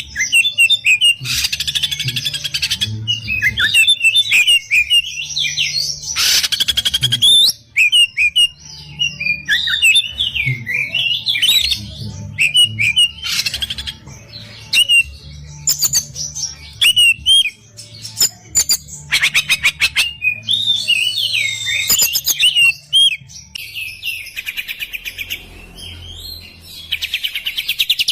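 Oriental magpie-robin (kacer) singing in an agitated, fast flow of varied whistles and trills. The song is broken by several harsh, rapid rattling calls. A faint low hum runs underneath.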